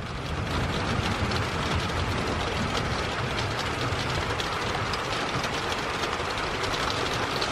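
Moderate rain falling steadily: a dense even hiss full of tiny drop ticks, swelling over the first half second and then holding steady.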